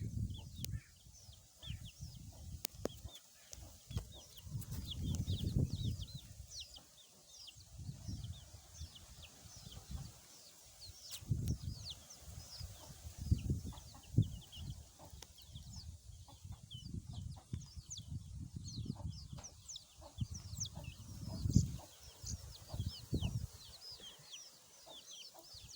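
Chickens' chicks peeping: a continuous stream of short, high, falling peeps, several a second, that grows busier later on. Intermittent low rumbles run underneath.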